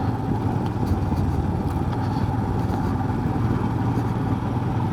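Motorcycle engine running steadily while riding, with steady wind and road noise.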